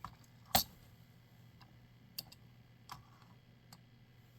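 A few faint, sharp clicks and light taps, the loudest about half a second in, from a small die-cast toy car being handled and set down for weighing.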